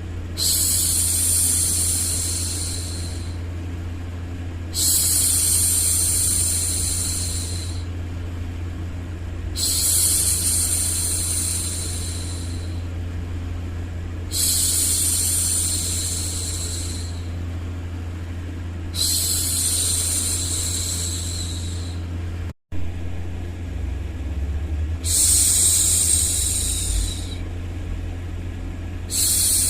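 A woman's voice shushing over a steady low hum: long 'shhh' sounds about three seconds each, repeated roughly every five seconds. About two-thirds of the way through, the sound drops out abruptly for an instant.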